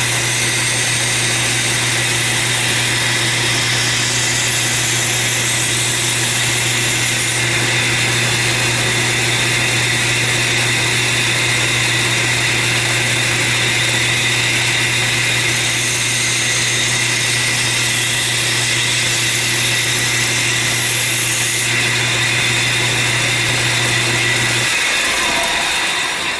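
Belt grinder running steadily while a steel straight-razor blade is ground against the belt on a 2-inch contact wheel, cutting a concave (hollow) bevel. The high grinding hiss grows stronger in two stretches, at the start and again past the middle. The motor stops shortly before the end.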